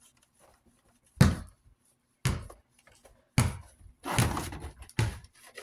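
Desk fan base being handled and wiped on a work surface: four sharp knocks about a second apart, with a brief scrubbing rub about four seconds in.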